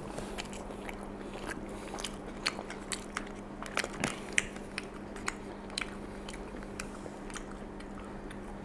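Eating at close range: wet chewing and mouth clicks on a mouthful of baked macaroni and cheese, with a spoon scraping and tapping in a foil tray. Short irregular clicks run over a steady low hum.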